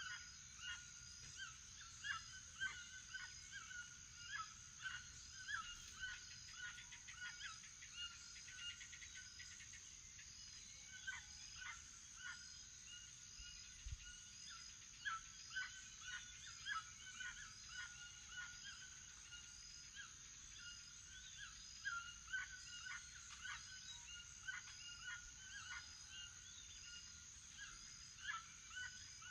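Toucans calling in a long series of short calls, about two a second, easing off briefly about a third of the way through, over a steady high-pitched background whine.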